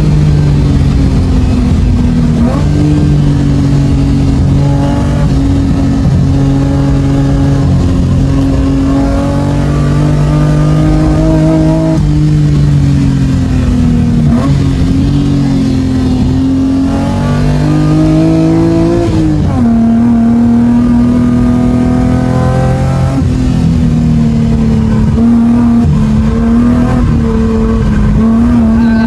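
Race-prepared car's engine heard from inside the cabin, driven hard at speed with a loud, steady note. Its pitch shifts several times, and about two-thirds of the way through it climbs for a couple of seconds and then drops sharply at an upshift.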